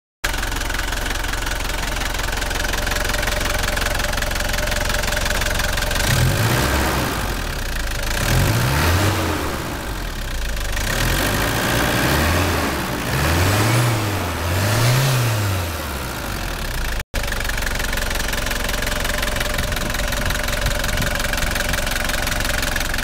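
A rebuilt Maverick engine running at idle, revved up and back down about five times in quick succession midway through, then settling back to a steady idle.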